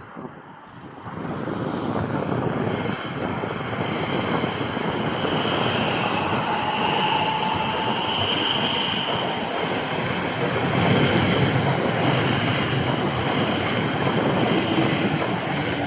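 A train running along the platform: steady wheel-on-rail rumble and rattle that builds about a second in, with a thin high squeal of the wheels in the middle.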